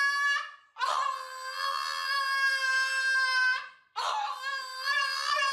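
An animal's long, steady, howling calls: one call ends, a full call lasts about three seconds, and another starts about four seconds in, wavering slightly in pitch.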